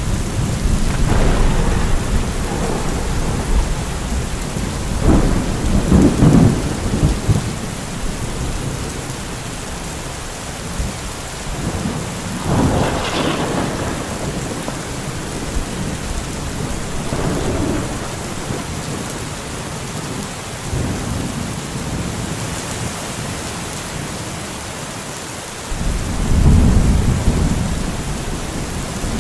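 Steady heavy rain falling, with thunder rumbling several times; a deep, strong roll of thunder starts suddenly near the end.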